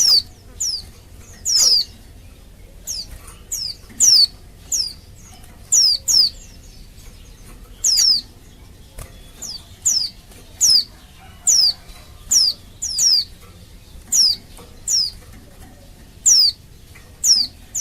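Female white-eye (pleci) calling: a steady run of short, high notes that each sweep downward, some in quick pairs, about one and a half a second. It is the female's call to males.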